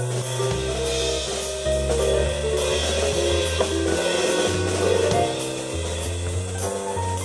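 Live keyboard and drum kit playing a rock jam: sustained keyboard chords and a bass line over a steady beat of kick, snare and cymbals.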